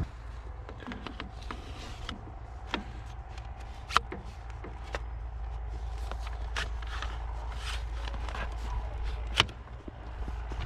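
Scattered clicks and knocks of hands and feet working with gear, two sharper ones about four seconds in and near the end, over a steady low rumble.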